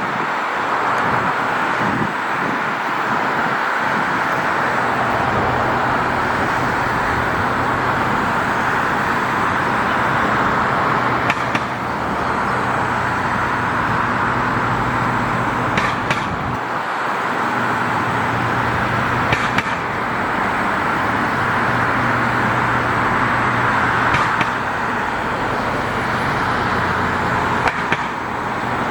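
Steady road traffic noise with a low engine hum underneath and a few brief sharp clicks.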